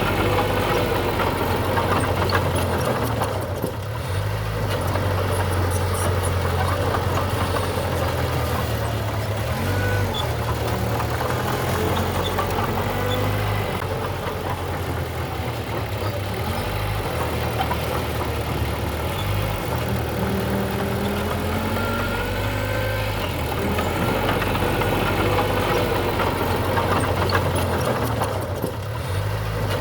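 A diesel engine of earthmoving machinery running steadily, with faint clanks over a constant low hum and two brief dips in loudness.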